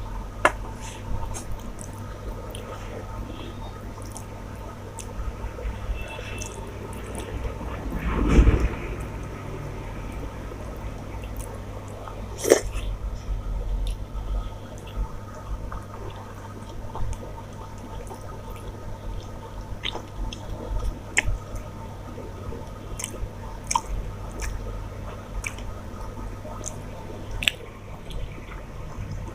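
Close-up eating sounds: chewing and wet squishing of rice and curry, with scattered small clicks. A louder noisy swell comes about eight seconds in and a sharp click about twelve seconds in.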